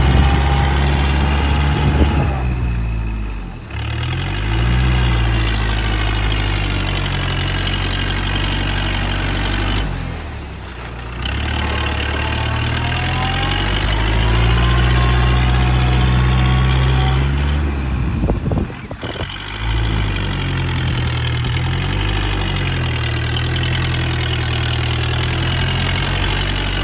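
Kubota four-wheel-drive tractor's diesel engine running under load in mud, its pitch rising and falling. The sound drops out briefly three times.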